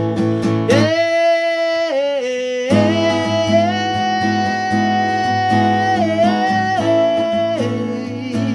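A man singing one long held note with no words over a strummed acoustic guitar. The guitar stops about a second in, leaving the voice alone with a small dip in pitch, and comes back in under three seconds in.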